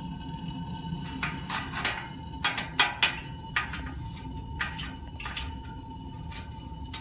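A 1968 Hydro Flame RV propane furnace running, a steady low rumble with a steady whine over it; the owner blames a nearly empty 20 lb cylinder for its slightly low, noisy flame. From about a second in to about five and a half seconds, a run of sharp metallic clinks and clanks sounds over it.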